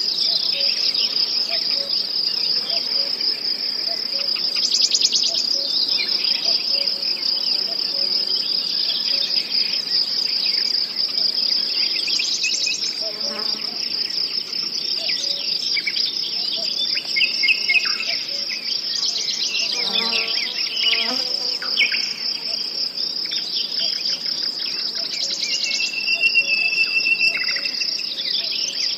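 Crickets chirring in a steady, high, pulsing chorus, with a louder buzzing trill rising over it about every seven seconds. A few short bird chirps come through, and near the end a bird holds one steady whistled note.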